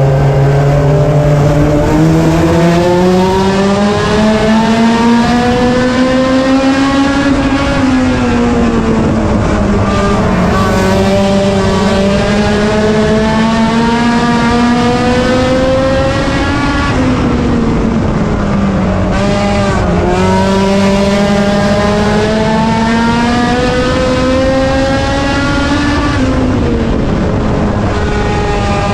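A front-wheel-drive import race car's four-cylinder engine running hard through laps. Its pitch climbs steadily down each straight and drops sharply as it lifts for the turns, about every 8 to 9 seconds.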